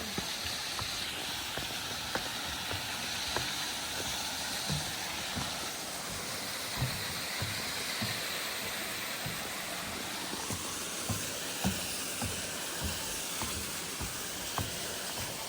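Steady rush of stream water falling through a wooded glen, with soft low thuds of footsteps on the path every half second or so.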